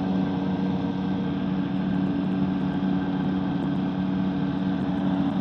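Microlight trike's engine and propeller droning steadily at cruise power, heard through the pilot's helmet intercom.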